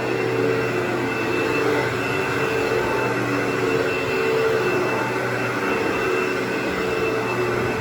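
Carpet-cleaning machine running steadily, its motor giving a constant drone with a steady high whine over it.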